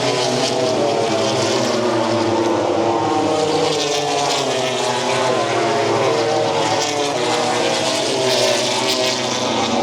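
Racing motorcycles going round the track at high revs, several engines heard together as a steady, loud, layered engine note.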